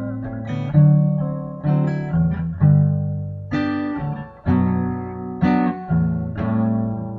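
Acoustic guitar playing chords: about ten separate strums, each ringing and fading before the next, with no voice over them.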